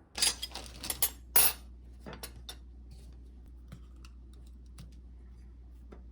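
Clatter of small hard objects: a quick run of clicks and rattles in the first second and a half, then scattered single clicks over a steady low hum.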